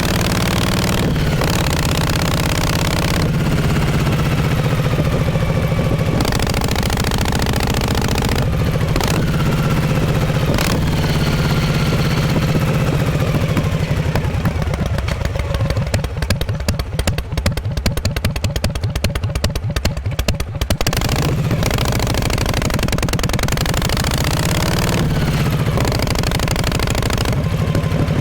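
1948 Harley-Davidson Panhead V-twin's exhaust running steadily. Partway through, the engine speed drops and the separate firing pulses come through for several seconds, then it picks up again.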